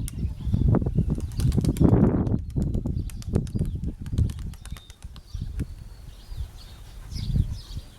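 Pigeons' wings flapping in gusts, mixed with wind buffeting the microphone, with faint bird chirps in the background.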